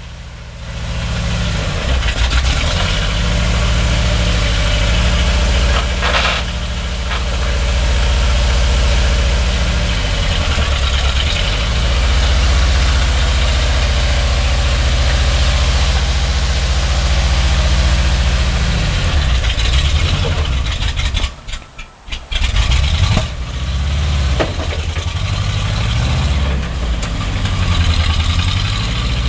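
Monster truck engine running, mostly at idle, rising and falling in pitch several times as it is revved. A little past two-thirds of the way through it almost cuts out for about a second, then picks up and runs on.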